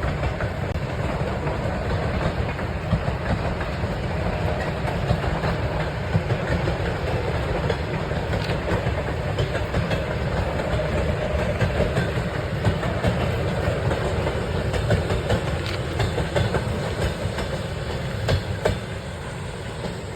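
Steady rumble of a moving vehicle, with occasional sharp clicks and clatter over it.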